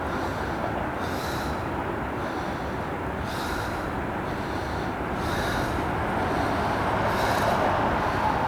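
Freight train cars rolling past at close range: a steady rumble of wheels on rail that grows a little louder about six seconds in, with a short high hiss about every two seconds.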